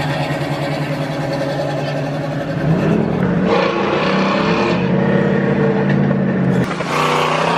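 Chevrolet Camaro engine and exhaust running. The engine revs up about three seconds in, holds the higher pitch for a few seconds, then drops back near the end.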